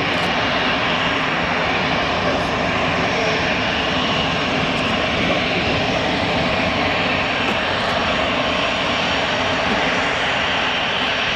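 Boeing 777 airliner's twin jet engines at takeoff power, a loud steady rushing noise as the aircraft departs.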